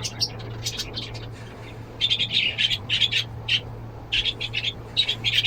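Small birds chirping, with rapid runs of short high chirps that come thickest about two seconds in and again near the end, over a steady low hum.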